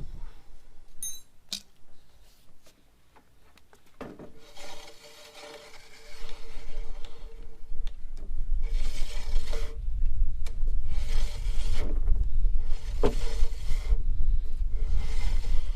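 Front brake lever of a 1994 Harley-Davidson FLSTN being pumped repeatedly to bring the brakes back up after the caliper was refitted: a series of scraping, rubbing strokes about every second or two, with a low rumble underneath from about six seconds in.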